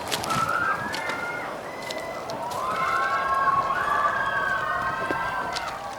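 Train whistle sounding two blasts, a short one and then a longer one, each a chord of several tones that slides up slightly as it starts, over the rumble of the moving train with scattered sharp clicks.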